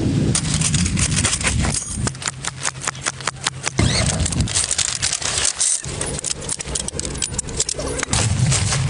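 Dense, irregular clicking and rattling, many small sharp ticks in quick succession over a low rumble.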